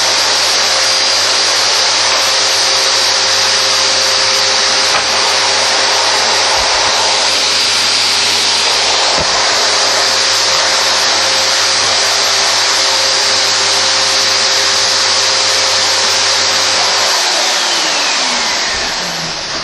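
Vacuum cleaner motor running at a loud, steady pitch. Near the end it is switched off: the hum stops and the motor winds down with a falling whine.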